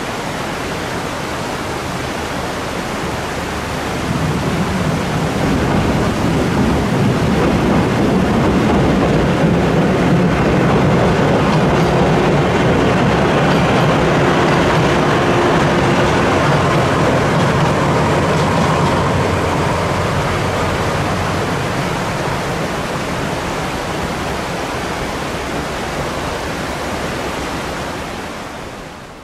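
DE15 diesel locomotive and 12-series coaches crossing a steel girder bridge: the rumble of the engine and wheels builds from about four seconds in, is loudest midway, and slowly fades near the end. Under it runs the steady rush of a rocky stream.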